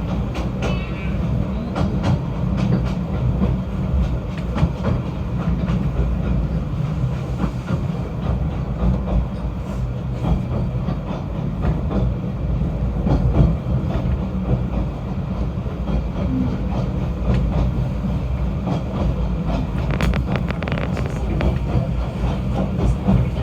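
Snowdon Mountain Railway rack-railway train running: a steady low rumble with frequent clicks and knocks, a short cluster of sharper clatter near the end.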